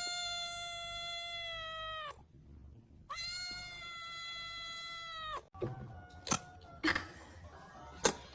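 Cat giving two long, drawn-out meows of about two seconds each, held on one pitch and dropping at the end. Then a few sharp clicks or knocks follow.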